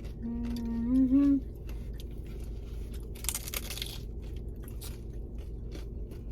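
Someone biting into and chewing a taco, with small crunching clicks and a denser crunch about three seconds in. Near the start a person hums an appreciative "mmm" that rises in pitch at its end.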